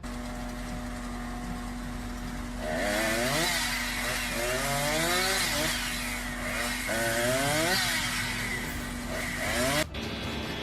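Chainsaw running, its pitch rising and falling again and again as it is revved and bogs into the cut from about three seconds in, then cutting off abruptly near the end.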